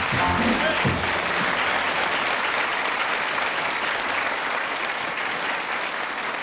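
Studio audience applauding as a song ends, the last notes stopping about a second in; the applause slowly dies down.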